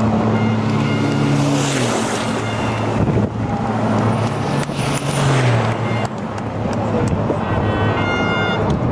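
Racing trucks' diesel engines at full speed on the circuit, a steady loud engine and tyre noise with trucks passing by.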